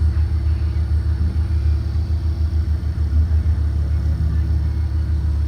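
A 2023 Blue Bird Vision propane school bus running, heard as a steady low rumble with a fast, even pulsing.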